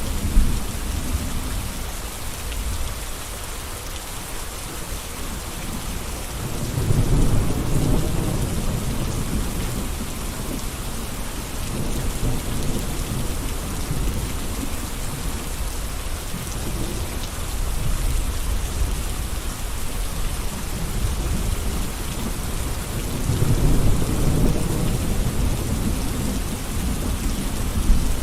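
Steady rain falling, an even hiss of drops on surfaces. Twice a low rumble swells up for a few seconds and fades, about seven seconds in and again near the end.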